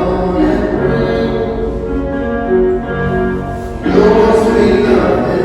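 A song performed live: sung, sustained notes over an instrumental accompaniment, moving from note to note every half second or so and swelling louder about four seconds in.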